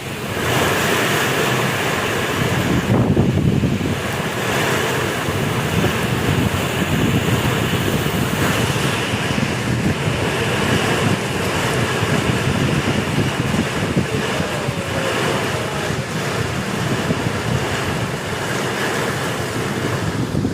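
Strong kalbaisakhi (nor'wester) storm wind blowing hard over the microphone, a steady heavy rush with small gusts.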